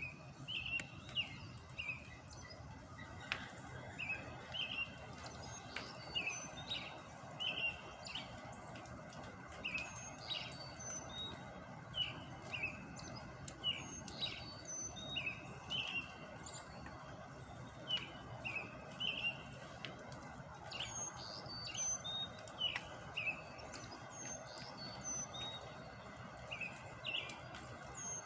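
Small birds chirping: many short, repeated chirps, a few each second, over a steady low background noise.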